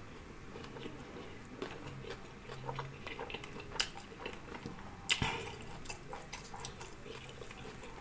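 Chewing with soft, wet mouth clicks and smacks, and a couple of sharper clicks about four and five seconds in.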